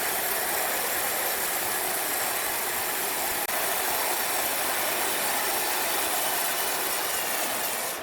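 Sawmill machinery running steadily with a dense, even hiss and no breaks.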